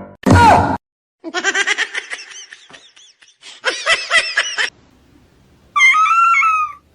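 A short loud falling squeal, then two runs of quick laughter, then near the end a single high, steady call lasting about a second.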